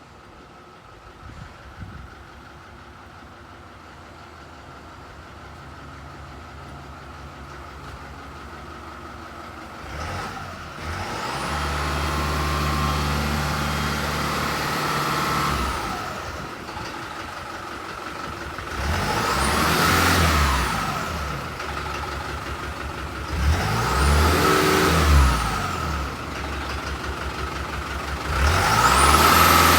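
Truck engine idling, then revved: one rev held for a few seconds, two shorter blips, and another rise near the end. A high whine climbs and falls with each rev.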